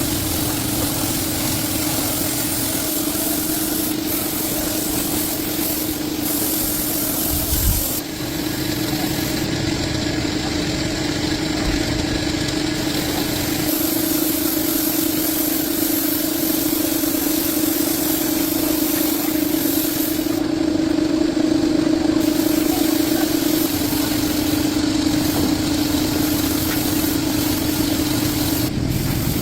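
A motor running steadily with a constant hum, with a brief break about eight seconds in.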